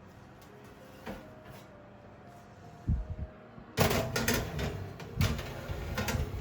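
Household handling sounds: a few soft clicks, a low double thud just before the midpoint, then a louder run of knocks and clatter from about four seconds in.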